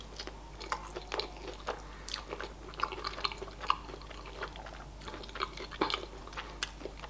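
Chewing and biting into a spicy KFC fried chicken wing: a steady stream of short, sharp smacks and crunches of mouth and breaded meat.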